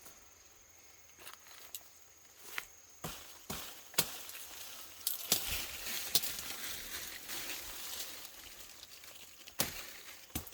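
Irregular sharp knocks and clacks of wood being worked, with rustling between them through the middle.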